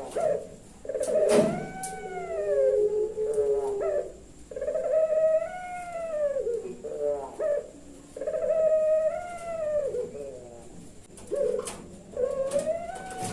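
Puter pelung dove cooing: a series of long, drawn-out coos, each rising and then falling away, repeated about every three seconds with short rolling notes between them. A sharp tap sounds about a second and a half in.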